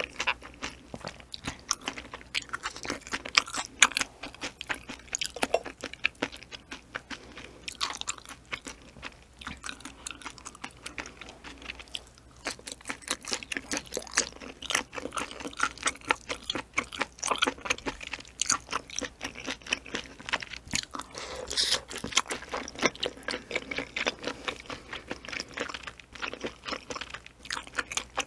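Close-miked chewing and biting of ocean sunfish jelly (gaebokchi-muk), a clear, springy jelly: a steady run of quick, sharp mouth clicks, with a brief lull about twelve seconds in.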